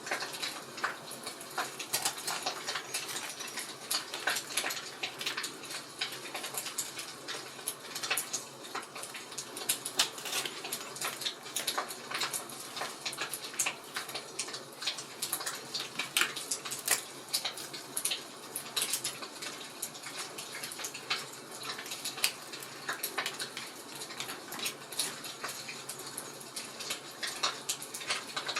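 Fireplace fire crackling: a soft steady hiss with many sharp, irregular pops and snaps.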